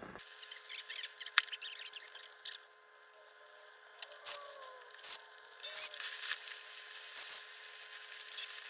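Hallicrafters S-108 shortwave receiver giving scratchy crackling and clicks, with a few faint whistle tones sliding in pitch about halfway through, as its freshly cleaned controls are worked with the set switched on.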